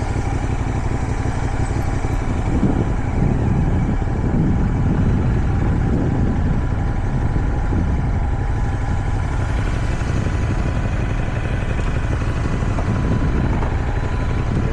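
CFMoto 450SR motorcycle engine running steadily under the rider, mixed with the rumble of wind on the microphone.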